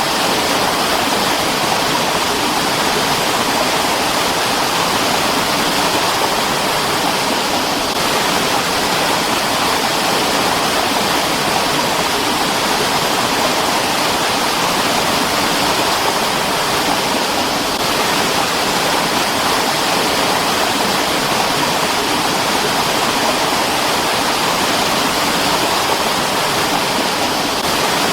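Mountain water stream flowing: a steady, even rush of water.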